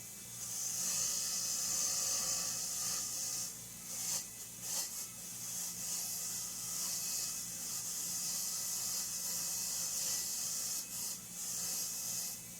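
Gunked-up small bolts and screws being cleaned on a running powered abrasive cleaner. It makes a high rasping hiss in long stretches, broken by a few short pauses as the parts are moved, over a steady low motor hum.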